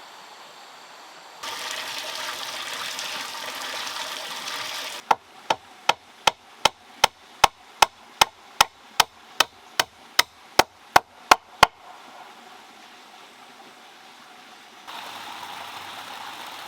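Water rushing for a few seconds, then a run of eighteen sharp, evenly spaced hammer blows, about two and a half a second. Running water comes back near the end.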